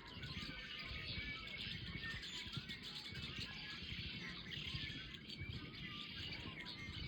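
A flock of red-winged blackbirds calling, a dense overlapping chorus of short chirps and trills.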